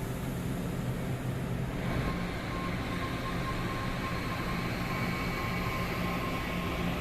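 Train running: a steady low hum, joined about two seconds in by a louder hiss and a thin high whine.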